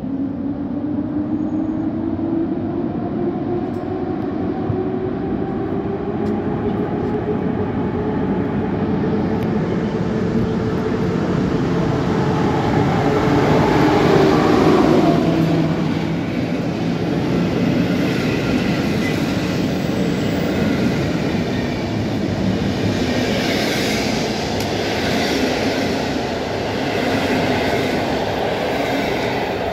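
EP07 electric locomotive pulling away with a passenger train, its traction motor whine rising steadily in pitch as it gathers speed and loudest as it passes about halfway through. Then the coaches roll by with rhythmic wheel clatter over the rail joints.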